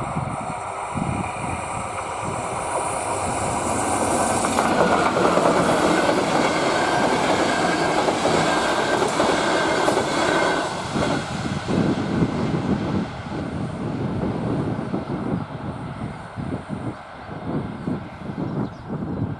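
A passenger train passes over the level crossing. The noise swells to its loudest in the middle, then gives way to the clatter of wheels over rail joints, which thins out toward the end.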